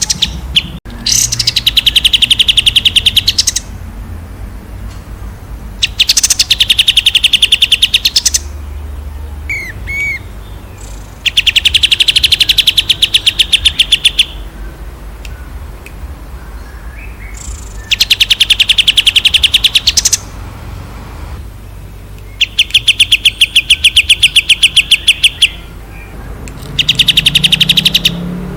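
A songbird sings long, rapid, rattling trills. Each is a fast run of identical notes lasting two to three seconds, and six come in a row a few seconds apart, with a short soft chirp between two of them.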